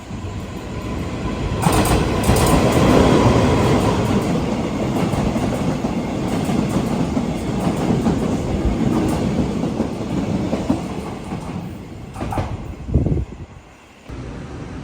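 Taiwan Railway train passing close by, its wheels clattering over the rails; the noise builds sharply about two seconds in and stays loud for about ten seconds. It drops off suddenly near the end, and a quieter steady rumble follows.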